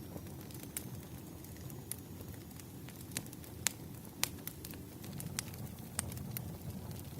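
Wood fire burning: a steady low rumble with irregular sharp pops and crackles of the burning logs, the loudest pair a little over halfway through.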